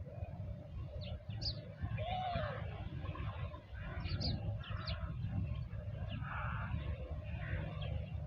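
Small birds chirping in short, high calls, a few about a second in and more around four to five seconds, over a steady low rumble.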